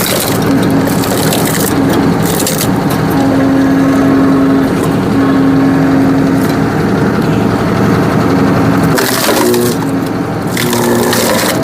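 Tractor engine and hydraulic pump running under load with a steady hum, while a tractor-mounted hydraulic log splitter forces its wedge through a knotty, cross-grained log, the wood cracking and splintering. The hum changes pitch about nine seconds in.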